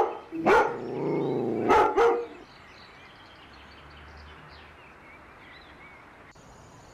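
A dog barks sharply about three times in the first two and a half seconds, with a drawn-out wavering call between the barks. After that there is only faint outdoor background with light bird chirps.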